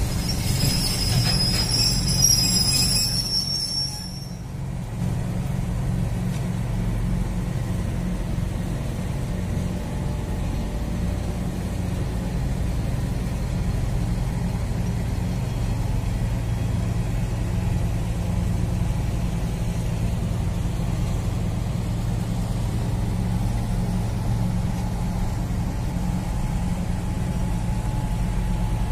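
Long container freight train rolling past, a steady low rumble of wheels on the rails. For the first few seconds a high-pitched wheel squeal rides over the rumble and stops about four seconds in.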